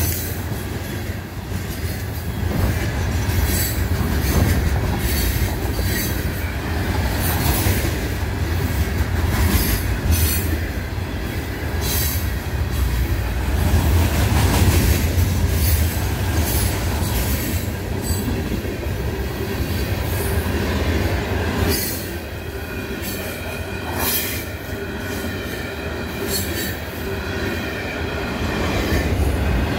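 Loaded freight cars rolling past on the Florida East Coast Railway: a steady rumble of steel wheels on rail, broken by sharp clacks every second or two as wheels cross joints, with some wheel squeal as the train runs through the crossover onto the east main.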